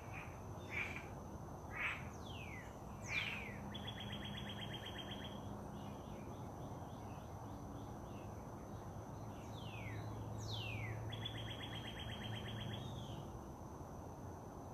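A songbird singing the same phrase twice: two falling whistles and then a rapid buzzy trill, with a few short chirps at the start. A steady high thin whine runs underneath.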